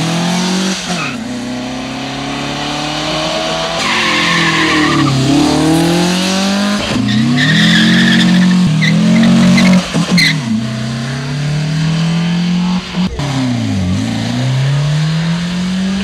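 Drag-racing cars, among them a VW-based beach buggy, accelerating hard from standing starts. Each engine's pitch climbs and then drops at the gear changes, over several runs in succession, with tyre squeal at the launches.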